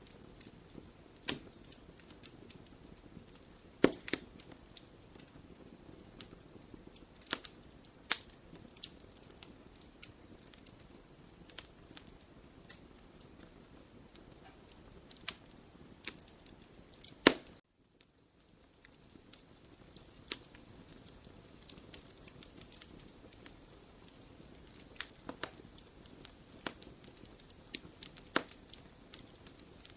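Wood fire burning in a fireplace: irregular sharp crackles and pops over a low steady hiss. The sound cuts out for a moment right after the loudest pop, just past the middle.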